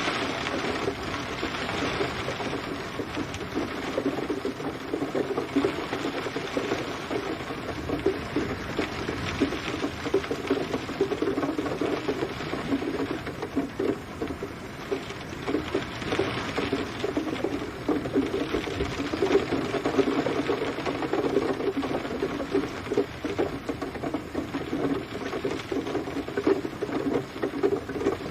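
Steady rain falling, a dense patter of drops that swells and eases slightly.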